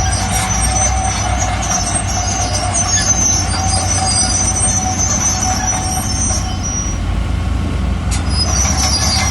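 Bulldozer working: a steady diesel engine rumble with the high metallic squeal of its steel crawler tracks. The squeal drops out about two-thirds of the way through and returns near the end.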